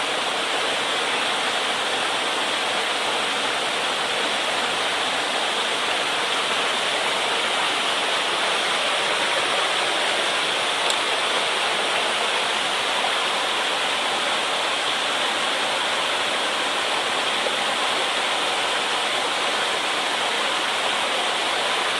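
Fast-flowing mountain stream, swollen after a typhoon, rushing steadily over rocks.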